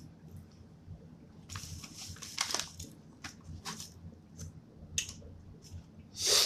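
Close-up eating sounds: scattered crackly clicks of biting and chewing burger and fries, with a louder noisy burst near the end.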